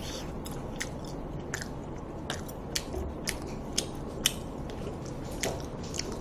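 Close-miked chewing of braised pig's trotters (jokbal), with irregular sharp clicks one or two times a second over a steady hiss.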